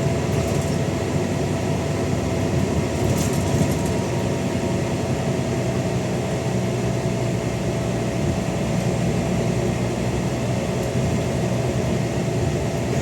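Scania N94UD OmniDekka double-decker bus's engine and ZF automatic gearbox running steadily under way: a worn-sounding engine thrash with a faint constant whine above it.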